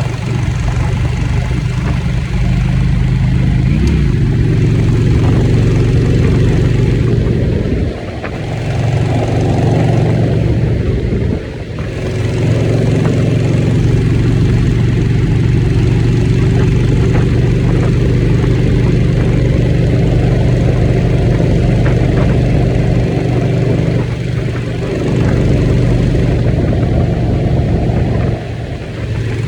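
Motorcycle engine running while the bike is ridden. The engine note drops briefly several times, as when the throttle is rolled off, and then picks back up.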